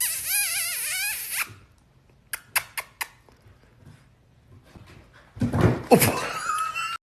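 A dog vocalising: a wavering, high call lasting about a second and a half, then a few sharp clicks, then a louder rough sound with a falling pitch near the end.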